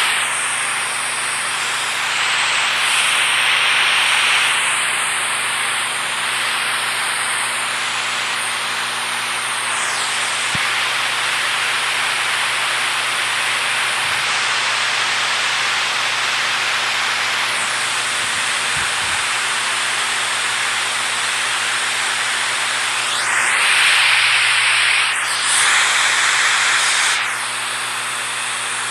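Rushing water making a steady, dense hiss, swelling louder briefly a couple of seconds in and twice more near the end.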